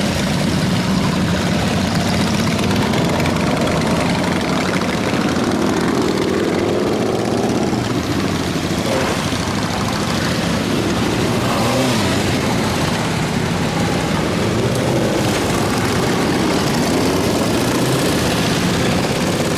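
Many motorcycle engines running together as a parade of bikes rides by, a steady loud drone with individual engines revving up and down in it.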